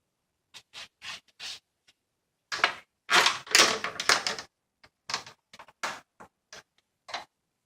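A spoon making a run of short scraping and clicking sounds, scattered at first, then a dense, louder cluster about two and a half seconds in that lasts some two seconds, then scattered again.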